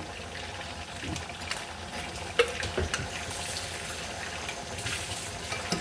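Food frying in a pan with a steady crackle, broken by a few sharp clicks and knocks.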